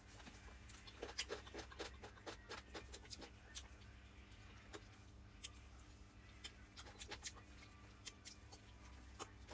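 Faint close-up eating sounds: a man chewing fried chicken, with many small irregular wet clicks and smacks of the mouth.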